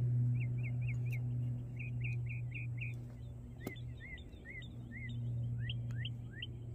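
Small birds chirping in quick runs of short, repeated notes over a steady low hum. A single sharp click comes a little past halfway.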